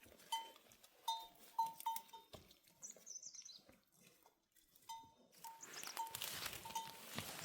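A small livestock bell clinking irregularly as the animal wearing it moves, each clink a short ring at the same pitch. A brief high chirp comes about three seconds in, and a soft hiss rises near the end.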